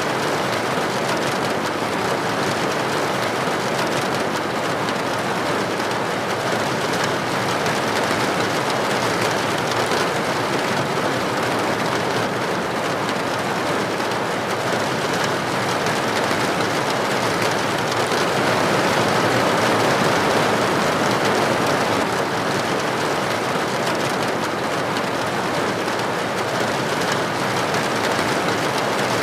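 Steady rain falling: a dense, even hiss of countless drops, swelling slightly about twenty seconds in.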